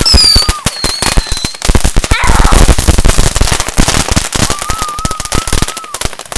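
Fireworks and firecrackers going off in a dense, rapid crackle, with whistling fireworks over it: a high falling whistle at the start, another high whistle about a second in, and a lower wavering whistle near the end.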